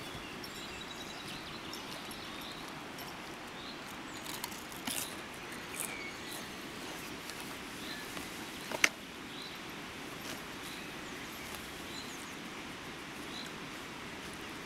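Outdoor ambience: a steady background hiss with a small bird giving short high chirps about once a second. A few sharp clicks and crackles break in, the loudest about nine seconds in.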